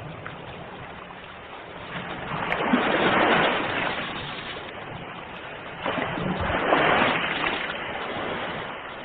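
Ocean waves breaking on the shore: two waves swell up and wash in, one about two seconds in and one about six seconds in, each fading back into a steady hiss of surf.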